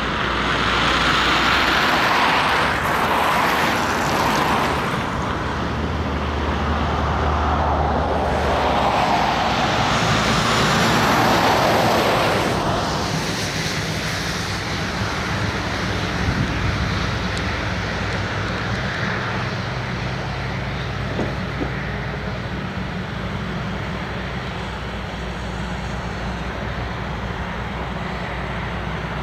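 Diesel engines of heavy construction machinery running steadily, with a louder, rougher stretch of working noise in the first half that eases off about halfway through.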